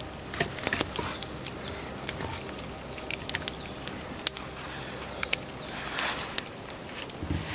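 Small forest birds calling with short falling chirps, several in the first few seconds, over scattered sharp clicks and snaps. About six seconds in comes a crunching, like steps in snow.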